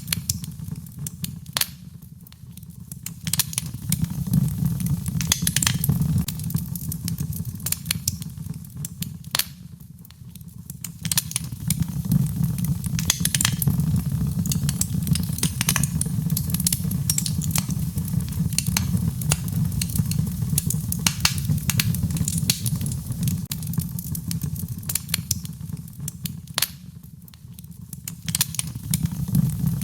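Wood fire in a fireplace crackling, with many sharp pops and snaps over a low steady rumble that swells and fades every several seconds.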